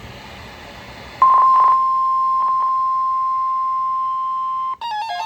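NOAA Weather Radio 1050 Hz warning alarm tone: a steady high tone that comes in about a second in, with crackles of garbled signal in its first moments, broadcast during a glitched alert. It cuts off near the end, and several weather alert radios start beeping in stepped multi-note patterns, sounding off for an unrecognized message.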